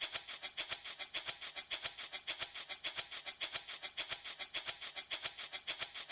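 Handmade wooden baby rattle shaken in a steady, even rhythm, about four to five crisp, bright rattles a second, like a maraca.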